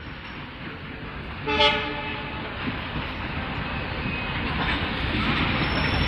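Train running past with a steady rumble, and a short horn blast about a second and a half in.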